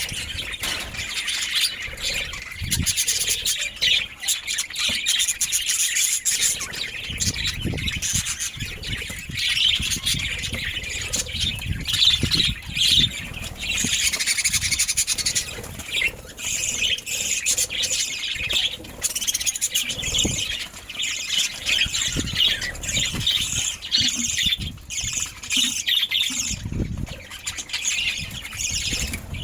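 Budgerigars chattering, with chirps and squawks running on without a break and occasional low thumps.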